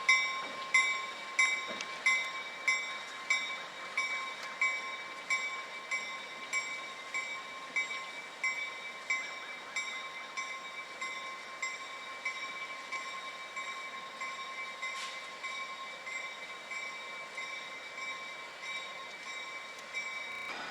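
A railroad bell ringing in a steady beat, about one and a half strikes a second, growing gradually fainter.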